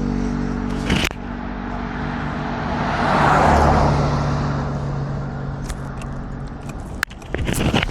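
A car passing by, its engine and tyre noise rising to a peak about three and a half seconds in and then fading. A thump comes about a second in.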